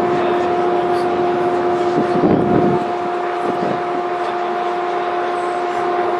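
A steady mechanical drone, a constant two-tone hum over a rushing noise, with a brief, faint voice-like sound about two seconds in.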